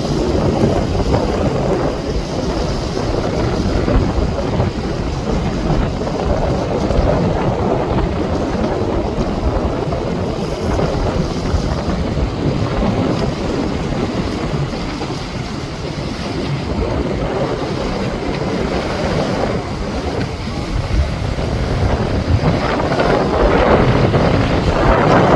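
Motorboats running through a rough inlet: a dense rush of engine and water noise with heavy wind on the microphone, growing louder near the end as a boat comes closer.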